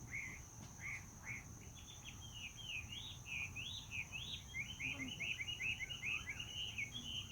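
A bird singing a long run of quick chirping notes that come faster and denser midway, over a steady high insect drone.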